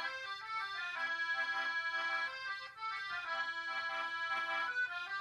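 Accordion music: a sustained melody over short, repeating chords.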